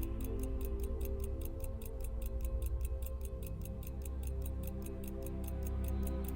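Cortebert cal. 523 pocket watch movement ticking at an even, quick rate of about five ticks a second, over background music.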